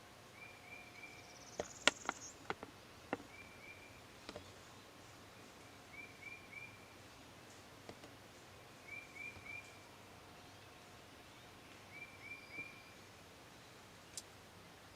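A small bird repeating a short three-note phrase about every three seconds in quiet woodland, with a few sharp clicks about two seconds in.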